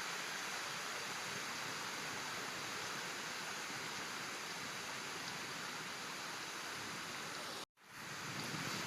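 Steady outdoor background hiss, like distant running water or wind, with no bird calls. Near the end it cuts out for a moment and fades back in.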